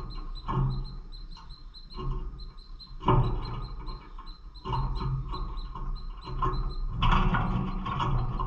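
Pet lovebirds chirping and chattering in short, repeated calls, busier toward the end, over a steady low hum.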